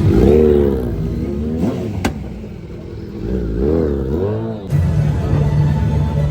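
Triumph motorcycle engine revved twice, the pitch rising and falling with each blip of the throttle, then settling to a steady idle about four and a half seconds in. A single sharp click about two seconds in.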